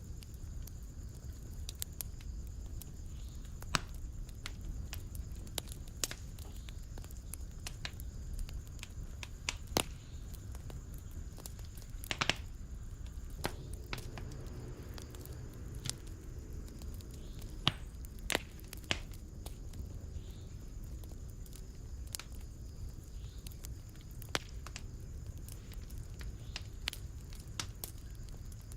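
A fire in a fireplace crackling: a steady low rumble of flames under irregular sharp pops and snaps, with a few louder pops about halfway through.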